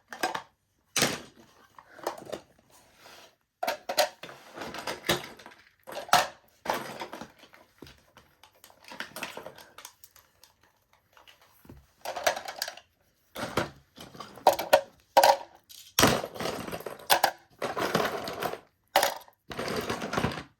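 Irregular clattering and rustling of small plastic toys and packaging being handled and sorted, busier in the second half.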